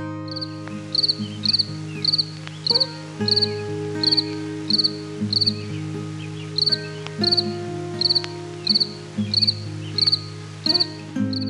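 A cricket chirping steadily, about two short pulsed chirps a second, over background music with sustained chords.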